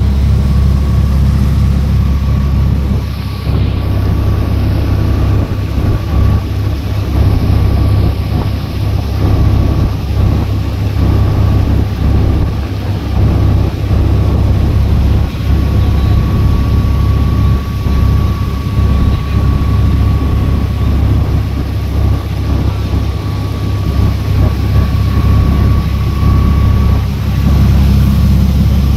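Engine of a small fibreglass passenger boat running steadily under way, heard aboard, with a thin steady whine above the deep engine note.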